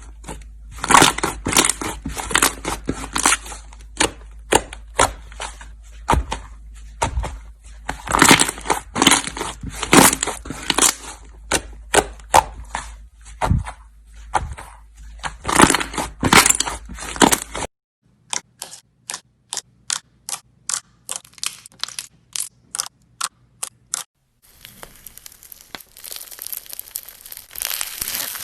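Slime being squeezed, pressed and poked by hand, with clustered crackling clicks and pops. After a sudden cut, evenly spaced clicks come about three a second, and after a second cut a softer, steady rustling squish.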